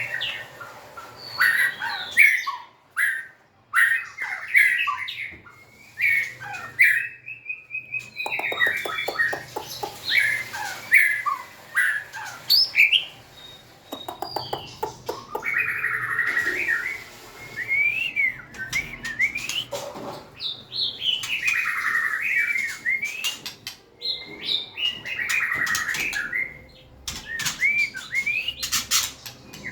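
White-rumped shama singing a varied song of short whistled phrases that glide up and down, with brief pauses between them and a couple of runs of rapid clicking notes.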